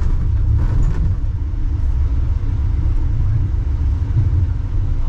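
Wuppertal Schwebebahn suspension railway car running along its overhead track, a steady low rumble.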